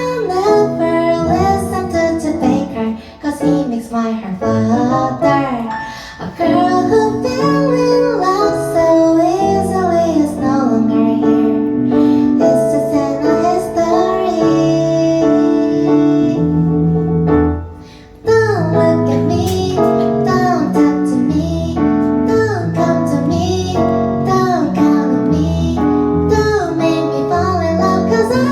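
Female singer performing live over keyboard accompaniment. The music dips briefly about two-thirds of the way in, then resumes.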